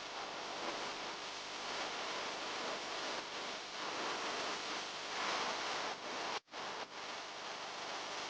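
Steady rushing noise with no clear tone, cutting out abruptly for a moment about six and a half seconds in and dipping again just after.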